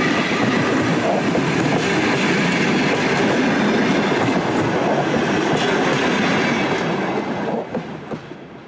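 Passenger train coaches rolling past close by, their wheels rumbling and clattering on the rails. The noise falls away near the end as the last coach goes by.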